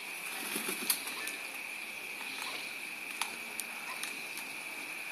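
Quiet outdoor ambience: a steady high-pitched hum with faint hiss, broken by a few faint sharp clicks.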